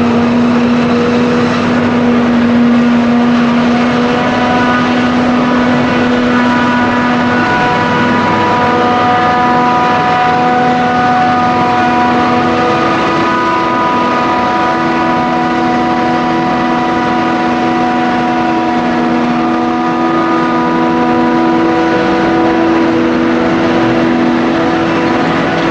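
Diesel engines of a forage harvester and tractors running steadily under load during maize chopping. Several engine notes hold level, and a second, higher note joins about halfway through.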